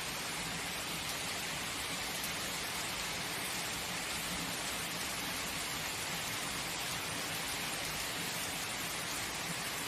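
Steady rain falling, a dense even hiss with no thunder strike standing out.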